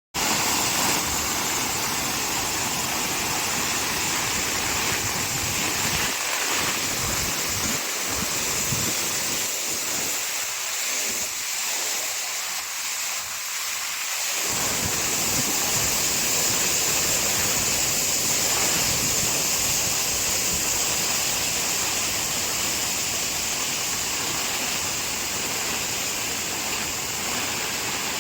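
Heavy rain pouring down in a steady, loud hiss. A deeper rumble under it fades out for a few seconds about ten seconds in, then returns.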